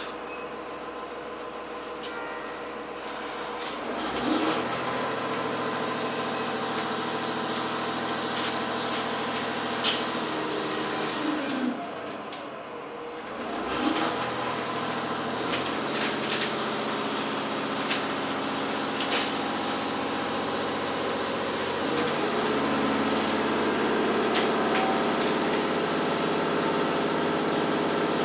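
Cabin sound of a JR Hokkaido H100 diesel-electric railcar under way: its diesel engine and running gear hum steadily, the engine note stepping up about four seconds in, easing briefly about halfway, then growing louder near the end as the train gathers speed. A few light clicks and knocks from the car.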